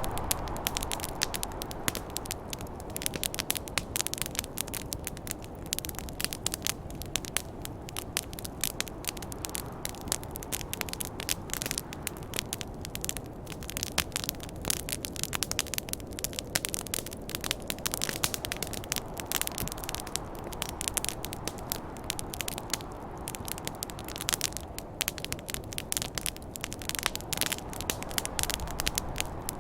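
Campfire crackling steadily with many sharp, irregular pops, over a low rushing of snowstorm wind that swells and fades every several seconds.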